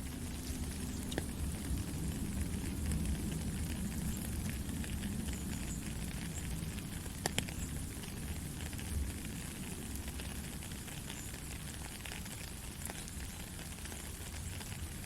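Steady rain falling, a continuous hiss with a low rumble beneath it and a few louder individual drops ticking, the sharpest about seven seconds in.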